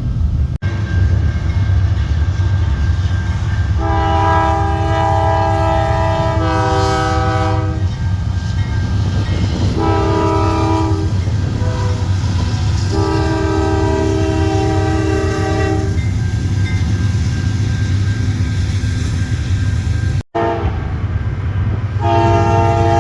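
Locomotive air horn sounding a chord several times over the low rumble of a passing train: a long blast, a short one about two seconds later, then another long blast, and a further blast starts near the end. The sound drops out for an instant twice.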